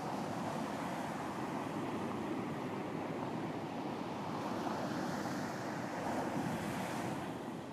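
Ocean surf washing onto a beach in a steady rush of noise, with a wave's hiss swelling about five seconds in and easing off near the end.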